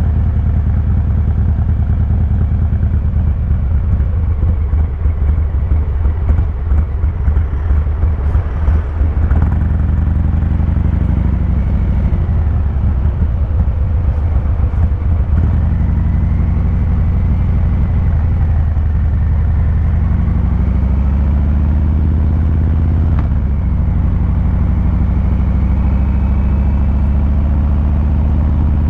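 2023 Harley-Davidson Fat Boy 114's Milwaukee-Eight V-twin engine and exhaust running under way. The note is choppy for the first third, then pitch rises gradually as the bike gently accelerates, with one sharp click about two-thirds through.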